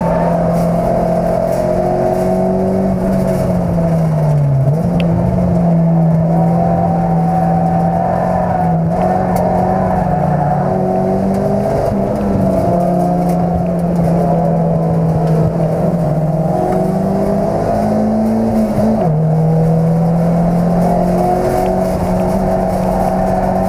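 Honda Integra race car's four-cylinder engine running hard under load, heard from inside the stripped-out cabin. The engine note holds steady but dips briefly about four to five seconds in, then rises and drops suddenly a little before twenty seconds in.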